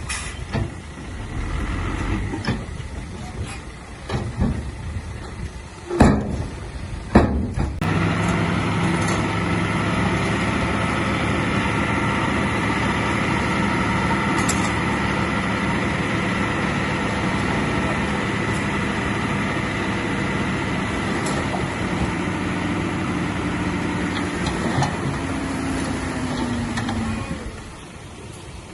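Heavy diesel engine of earthmoving machinery running steadily under load, after several seconds of metal clanks and knocks, with a falling tone as it eases off near the end.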